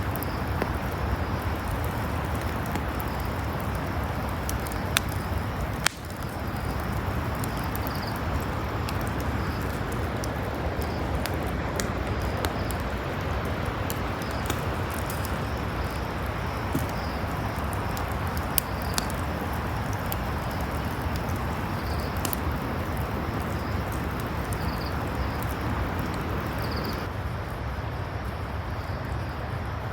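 Outdoor ambience: a steady rush of noise with scattered clicks and faint, short, high chirps recurring throughout. There is a brief break about six seconds in.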